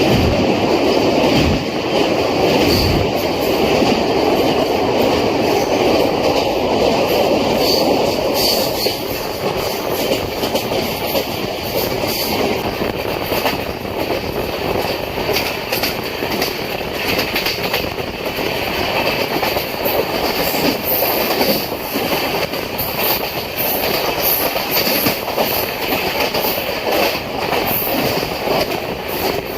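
A moving Humsafar Express passenger train heard from on board: a steady rumble of wheels on the rails with some clatter and occasional high wheel squeal.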